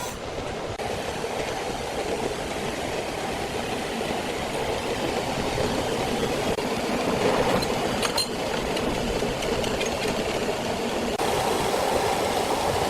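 Sawmill machinery running with a steady, dense mechanical noise and no clear saw whine.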